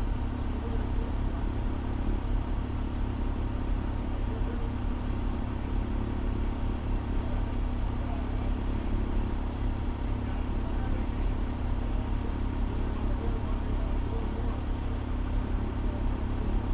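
Fire engine's diesel engine idling steadily, a constant low rumble with a faint steady hum.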